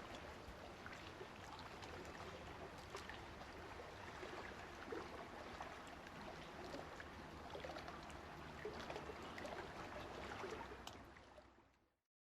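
Stock sound effect of flowing water: a steady, faint wash of water sound with scattered small splashes and clicks, fading out near the end.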